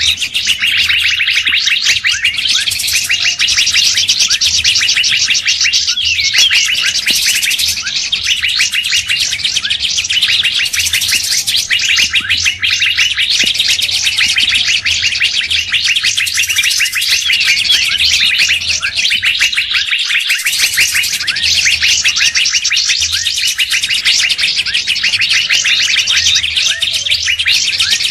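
A dense, unbroken chorus of rapid songbird chirps, trills and short whistled glides, several birds calling over one another. It is a bird-lure (pikat) recording mixing the calls of species such as the Asian fairy-bluebird, leafbird and drongo, played to draw wild birds in. Brighter, shriller bursts stand out every few seconds.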